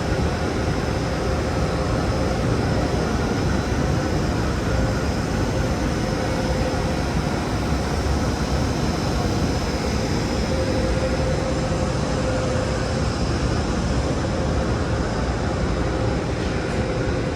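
Electric locomotive standing at the platform, its cooling blowers and electrics running with a steady whir and a faint steady hum.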